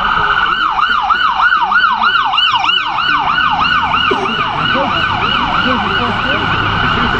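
Emergency vehicle's electronic siren in a fast yelp, sweeping up and down about three times a second, coming in about half a second in and fading toward the end.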